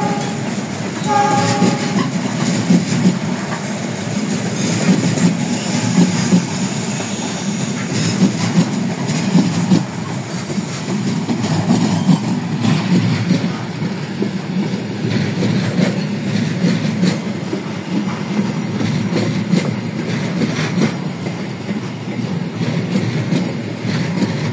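Rake of passenger coaches rolling slowly past during shunting, wheels clacking over rail joints over a steady rumble.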